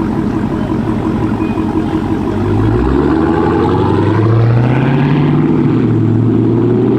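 V8 muscle-car engine pulling away: it runs low, then gets louder about three seconds in as the revs climb and settle.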